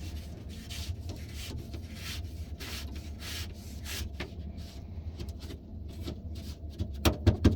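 Repeated short rubbing strokes, a few a second, on the rubber window channel as it is cleaned of dirt and worked into place, with a couple of sharp knocks near the end.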